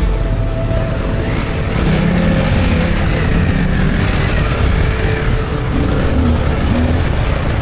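Dirt bike engine running as it is ridden, its pitch rising and falling.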